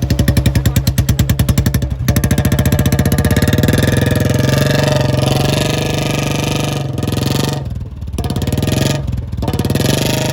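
Royal Enfield Bullet 350's single-cylinder engine running. It gives an even thumping rhythm at first, then revs up about two seconds in and holds a steadier, faster run, dropping off the throttle briefly twice near the end.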